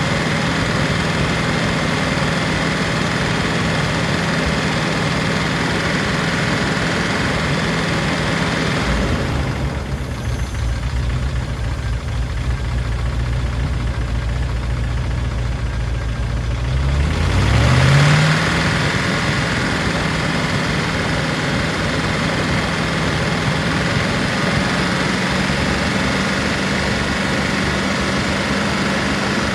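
P38 Range Rover engine idling steadily with Rislone in the oil, which the owner is using against a suspected sticking valve or lifter. For several seconds in the middle the sound turns duller and lower, then rises in pitch briefly and settles back to its earlier idle.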